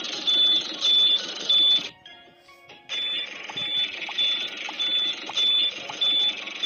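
Electronic beeping: a high, steady beep repeating about every 0.6 s over a busy, hissy backing, breaking off for about a second near two seconds in before resuming.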